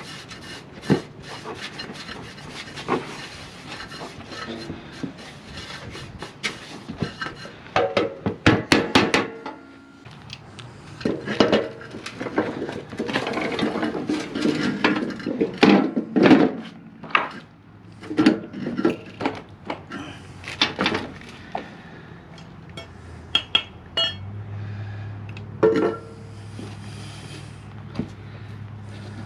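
Metal tools and mower-deck parts clinking, clanking and knocking against one another, in irregular taps and clanks that are busiest in the middle. A low steady hum sets in near the end.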